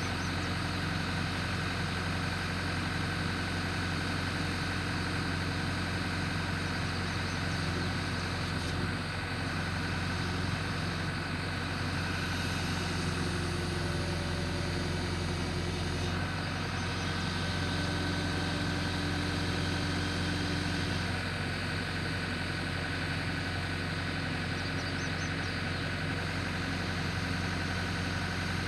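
Backhoe engine running steadily near idle, an even mechanical hum with no change in revs.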